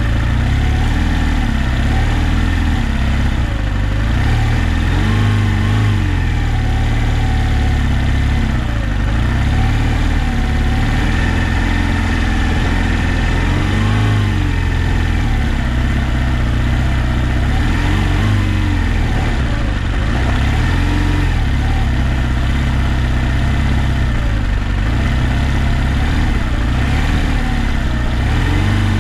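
Adventure motorcycle engine running at low, varying revs on an off-road trail, its pitch rising and falling with the throttle over a steady low rumble.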